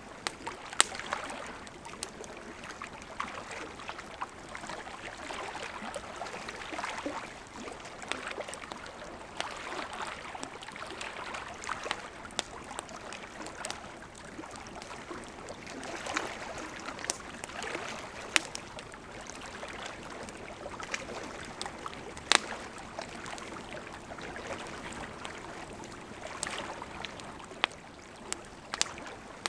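Burning wood crackling: a steady soft hiss with scattered sharp pops and snaps at irregular intervals, the loudest pop about three-quarters of the way through.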